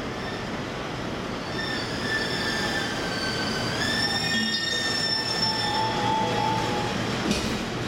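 Tokyo Waterfront Area Rapid Transit 70-000 series electric train pulling into the platform and braking to a stop. Rolling noise runs under several high whining tones that hold, step and glide upward from about two seconds in, then a lower squeal, and a short sharp noise near the end as the train halts.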